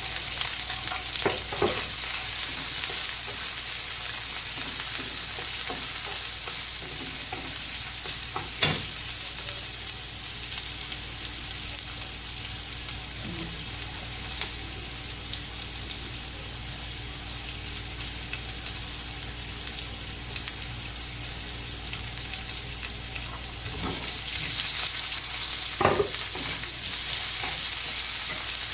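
Oil sizzling steadily in a nonstick frying pan as sliced garlic and ginger fry, stirred with a wooden spatula that knocks against the pan a few times. The sizzle grows louder near the end as pieces of meat go into the hot oil.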